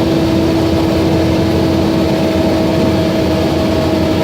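Semi truck's diesel engine running steadily at low speed while maneuvering, heard from inside the cab: an even low rumble with a steady whine over it.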